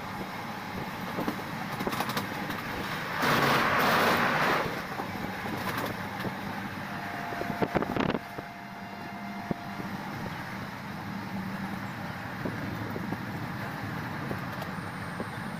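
Passenger train running: steady rumble of the moving coaches with scattered clicks from the wheels on the rails, and a louder rush of noise for about a second and a half a few seconds in. A faint steady tone sounds for about three seconds near the middle.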